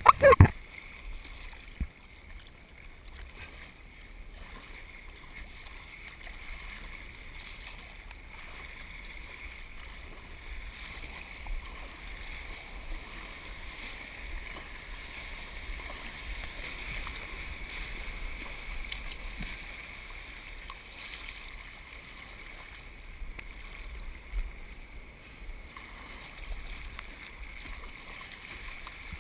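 Ocean surf and water washing around a surf kayak: a steady hiss of waves with low wind rumble on the microphone, after a brief loud burst at the very start.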